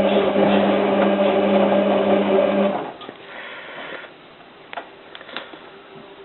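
Hotpoint 9534A washing machine's drum motor turning the drum during the heating stage of a 95° cotton wash: a steady humming whirr for about three seconds that then stops. A quieter spell with a few light clicks follows.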